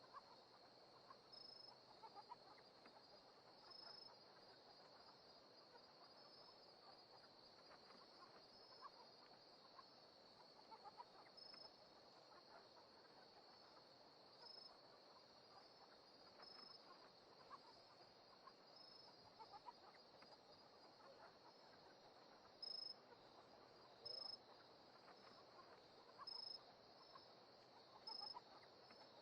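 Crickets and other insects trilling steadily and quietly, with short louder chirps every second or two.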